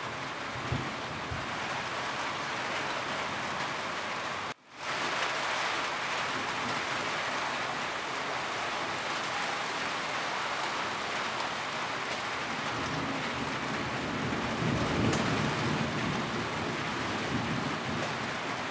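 Steady rain on a roof, a dense, even hiss. It cuts out abruptly for a split second about four and a half seconds in. A low rumble swells in the last few seconds.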